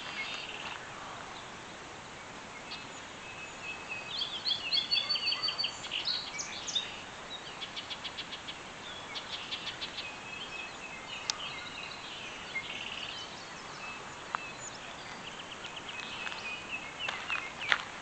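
Songbirds singing: several repeated trilled and chirped phrases a few seconds apart, over a faint steady outdoor hiss.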